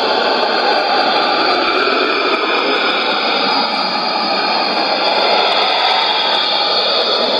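Shortwave radio reception on 5905 kHz: a dense, steady noise signal fills the receiver's audio band, with faint steady tones running through it and no speech. This is typical of the strange test transmission from MBR on the frequency.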